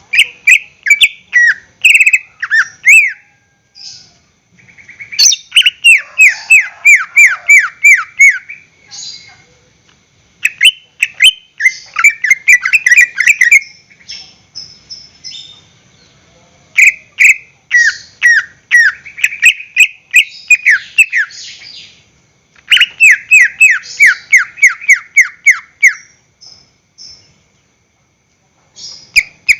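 Cucak ijo (green leafbird) singing: loud bursts of rapid, repeated downward-sliding notes, each burst lasting a few seconds, with short pauses between them.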